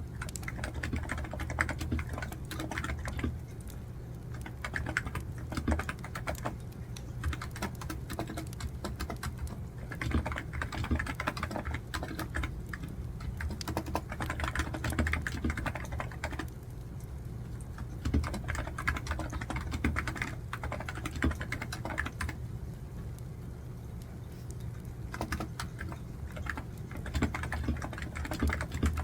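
Computer keyboard being typed on in quick runs of keystrokes, broken by short pauses every few seconds, over a steady low hum.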